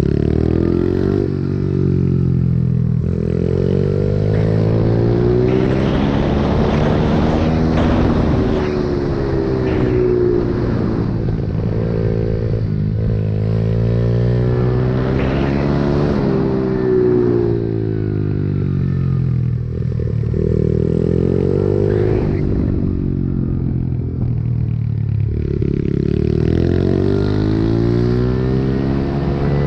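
Pit bike engine under way, its pitch climbing as it accelerates and dropping off again over and over.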